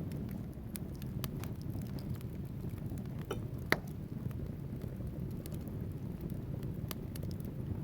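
Wood fire burning in a fireplace: a steady low rumble of flames with scattered crackles from the logs, and one louder pop near the middle.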